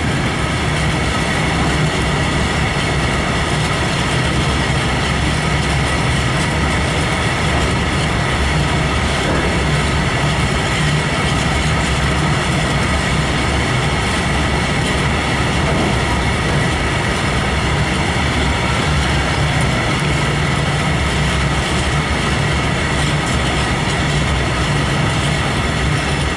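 Freight train of open coal wagons rolling past at close range: a steady, unbroken rumble of wheels on rail with a constant high whine over it.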